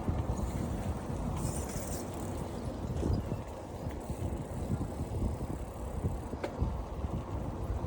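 Bicycle rolling along a street: a steady rumble of road noise and wind on the microphone, with a sharp click about six and a half seconds in.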